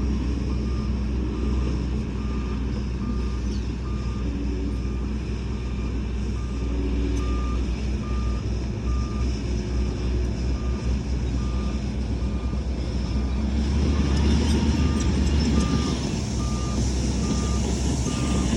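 Heavy earthmoving machine's reversing alarm beeping about once a second over a diesel engine running steadily. About fourteen seconds in, the engine noise grows louder as the machine works harder.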